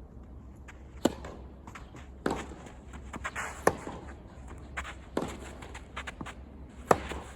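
Tennis rally: a ball struck hard by rackets about every second and a half, five sharp hits in all, with softer bounces and shoe scuffs on the court between them.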